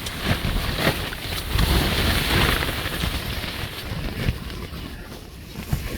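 Strong wind buffeting the microphone with a low rumble, gusting louder about two seconds in.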